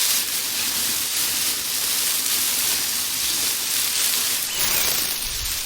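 A steady, even hiss, brightest in the high treble, with a short low rumble near the end.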